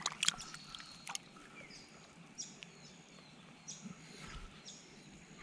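Birds chirping now and then over a faint steady hiss of flowing water, with a few sharp clicks in the first second.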